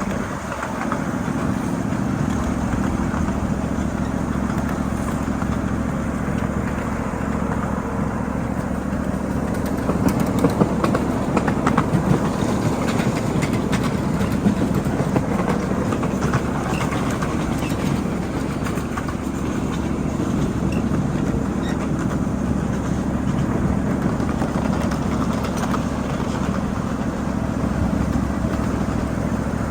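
A 7.5-inch gauge ride-on miniature freight train running along its track. A steady mechanical hum carries throughout, with wheels clicking over the rail joints.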